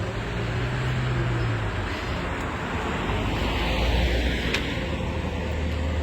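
Motor vehicle passing by: tyre and engine noise swells to a peak about four seconds in, then eases, over a steady low engine hum.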